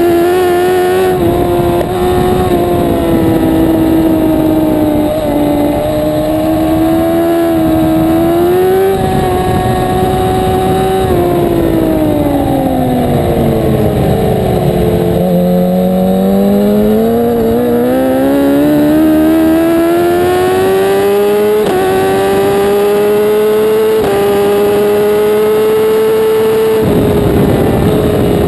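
A 1000 cc superbike engine running hard at high revs, its pitch stepping sharply at each gear change. About halfway through, the revs sink slowly for a few seconds and then climb again, as the bike slows for a corner and accelerates out.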